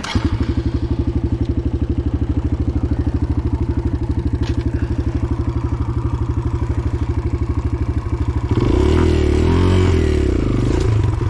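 Dirt bike engine idling with an even, steady putter, then revving up and down from about eight and a half seconds in.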